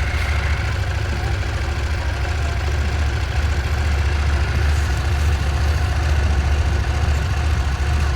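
Steady, loud low engine rumble with a constant hiss over it, from the car ferry's engines.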